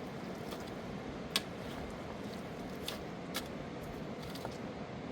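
Steady rush of flowing river water, with a few sharp clicks and knocks over it, the loudest about a second and a half in.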